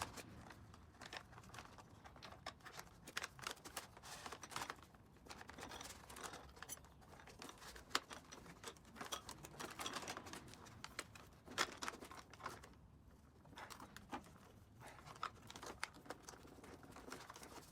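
Faint rustling, crinkling and scattered sharp clicks of coiled tubing being handled and its ends routed and fitted.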